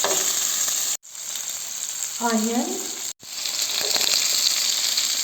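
Chicken pieces and diced onion sizzling steadily in olive oil in a frying pan, stirred now and then. The sizzle drops out briefly twice, and a short pitched sound is heard a little after two seconds.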